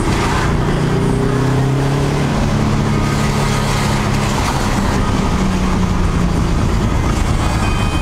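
1995 Subaru WRX STI wagon's flat-four boxer engine running at a steady pitch while driving, over constant road and tyre rumble.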